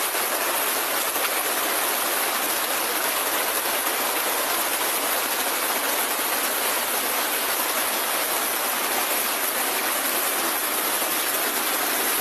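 Floodwater rushing through a gully: a steady, even rush of water with no breaks.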